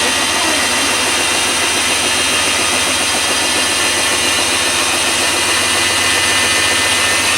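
Top-loading washing machine running into its spin cycle: a loud, steady machine hum with a high whine and a fast rattling vibration underneath.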